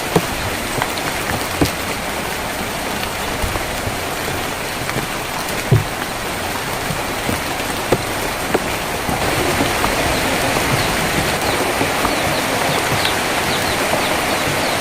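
Steady rain on a tin roof, an even hiss with scattered louder drops knocking on the metal, growing a little heavier about nine seconds in. A few faint bird chirps come in near the end.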